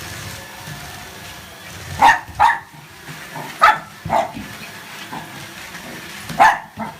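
A dog barking at a running vacuum cleaner: five short barks, a pair about two seconds in, another pair past the middle and a single one near the end, over the vacuum's steady hum.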